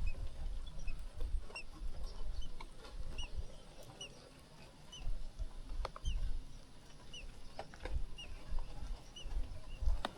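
Nestling birds peeping: short high chirps repeated about twice a second, over a low rumble, with a couple of sharp clicks.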